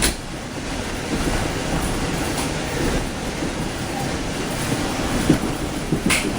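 Amtrak Silver Star passenger train running along the track, heard from on board: a steady rumble with a sharp click right at the start and another about six seconds in.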